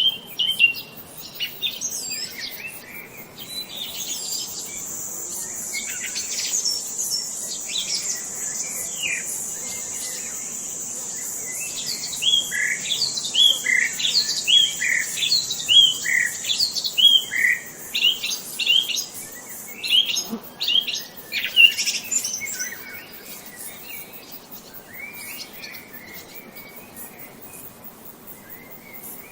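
Wild songbirds chirping and calling, with a run of quick repeated down-slurred notes about two a second midway, over a steady high buzz that stops after about twenty seconds.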